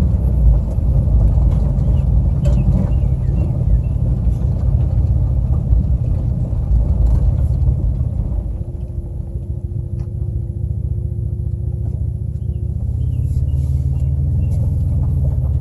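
Vehicle engine and road noise heard from inside the cab while driving: a steady low rumble that eases somewhat about halfway through, then builds a little again near the end.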